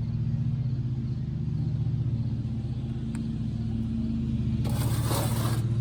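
Dodge Dart Sport's engine idling steadily, with an even low pulsing, and a brief burst of hiss near the end.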